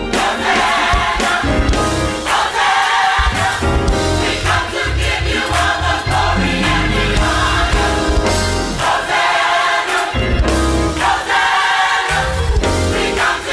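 Gospel choir singing over a band with bass, keyboard and drums, in phrases of a second or two with a steady beat.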